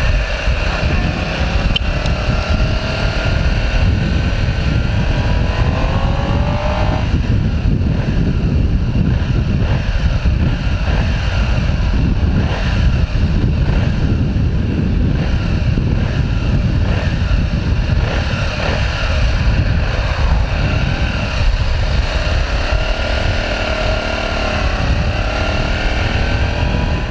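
Motorcycle engine running while riding, its pitch climbing steadily under acceleration and dropping at a gear change about seven seconds in, then rising and falling again near the end, over heavy wind rush on the microphone.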